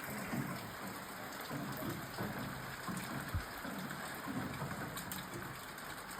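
Heavy rain falling steadily, a continuous hiss of drops hitting surfaces.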